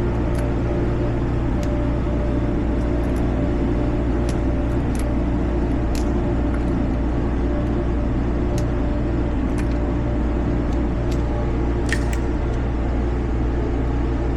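Steady low hum and rumble, with a few faint scattered clicks; no gunshots yet.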